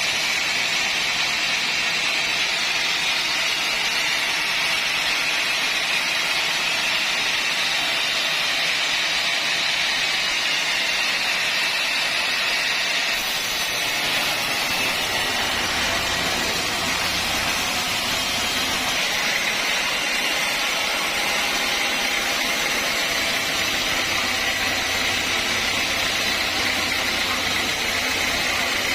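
Sawmill saw running through a mahogany log as a steady, loud, rasping whine. About halfway through its tone shifts and a lower hum comes in.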